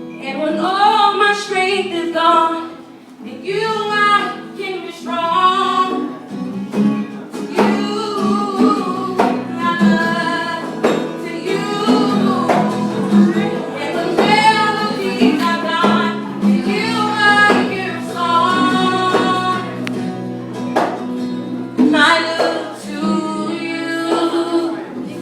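A solo voice singing long, wavering, drawn-out notes over guitar accompaniment, with short gaps between phrases.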